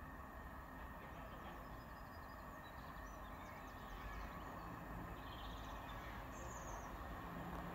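Small birds chirping a few times over a faint low rumble that grows slowly louder: a diesel train approaching in the distance.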